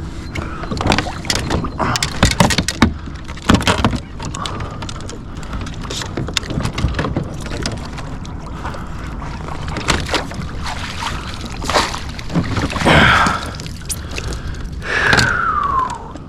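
Repeated sharp knocks and clatter on a kayak with water splashing around it, as a hooked fish is fought at the boat. Near the end come two louder whines that fall in pitch.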